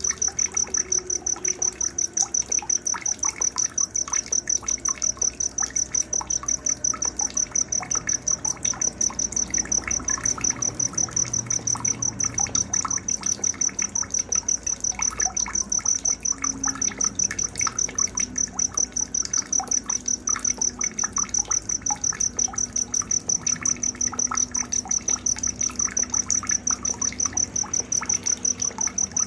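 Night nature sounds: a cricket chirping in a steady, even pulse, several chirps a second, with faint scattered short chirps lower down.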